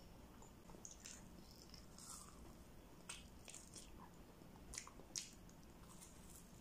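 Faint chewing and wet mouth smacks of a person eating a roasted marshmallow, with short sticky clicks about once a second and two louder ones about five seconds in.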